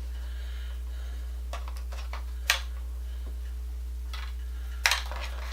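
A few light clicks and taps of small parts being handled, the sharpest about two and a half seconds in and again near the end, over a steady low hum.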